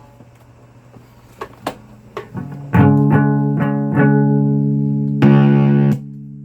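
Guitar: a few light picked notes, then three loud strummed chords, each left to ring, starting about three seconds in.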